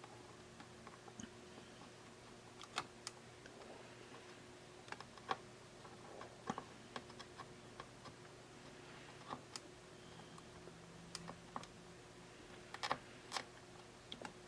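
Faint, irregular clicks and small taps from small tools and parts being handled on a workbench during an electronics repair, over a faint steady hum.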